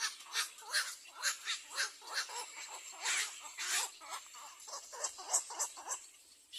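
Little egret nestlings calling in a fast run of short, harsh calls, about three or four a second, dying away near the end.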